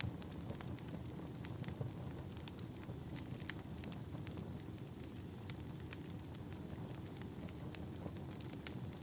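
Fireplace crackling: irregular sharp pops and snaps over a steady low rumble of burning wood, with a faint high thin whistle in the background.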